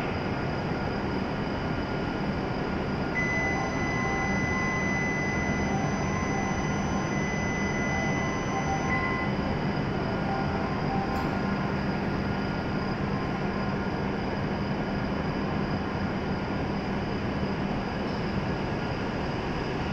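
W7-series Shinkansen standing at the platform, its onboard equipment running with a steady hum. From about three seconds in, an electronic signal plays for some six seconds: a steady high tone with short repeated lower notes.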